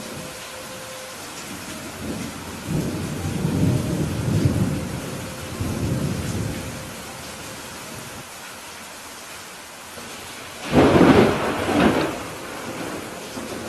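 Steady rain hiss with thunder: low rolling rumbles in the first half, then a louder, sharper clap of thunder about 11 seconds in that fades after a second or so.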